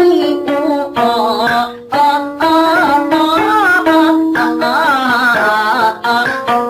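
Music from a Wenzhou guci drum-song storytelling performance: long held melodic notes with wavering pitch, broken by short pauses about one and two seconds in.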